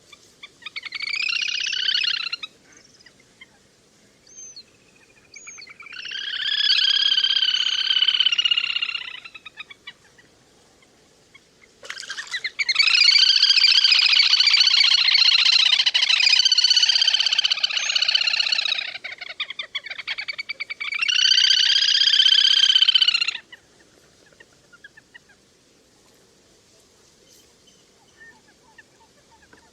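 Little grebe calling in four bouts of high, rapid trills, the longest lasting about seven seconds, with pauses between.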